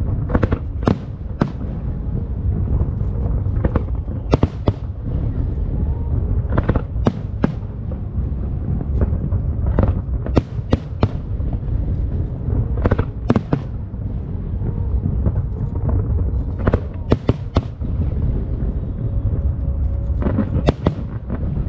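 Aerial fireworks going off: a continuous low rumble of booms with many sharp bangs and crackles, several coming in quick clusters.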